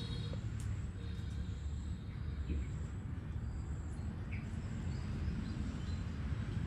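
Outdoor background noise: a steady low rumble with a thin steady high whine and a few faint, short high chirps.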